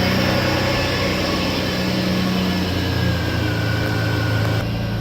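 1987 Ferrari Testarossa's twelve-cylinder engine idling steadily, with a slight shift in tone partway through and an abrupt change in the sound just before the end.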